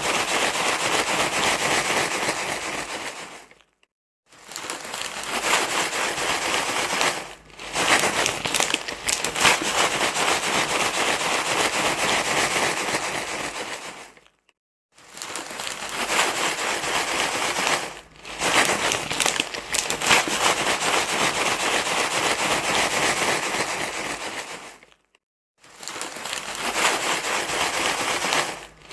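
Close rustling and crinkling, like material being crumpled by hand, dense and crackly. It runs in stretches of several seconds, dropping out briefly about every ten seconds.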